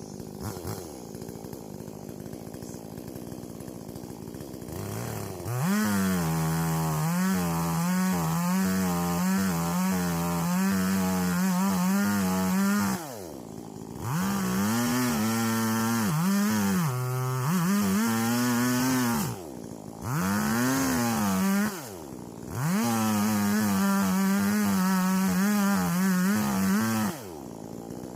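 Two-stroke chainsaw idling, then revved to full throttle about five seconds in. The engine note drops and climbs back about four times as the throttle is eased and reopened, then falls back to idle shortly before the end.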